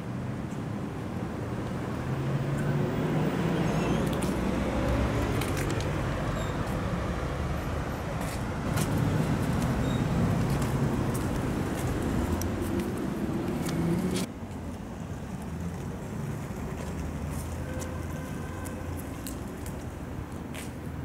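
A motor vehicle engine running close by, a steady low hum that drops away suddenly about two-thirds of the way in, leaving quieter traffic hum. Scattered light clicks sound over it.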